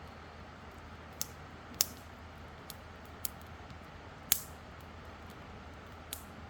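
Wood campfire crackling: irregular sharp pops and snaps, about six of them, two louder ones near two and four seconds in, over a steady low hiss.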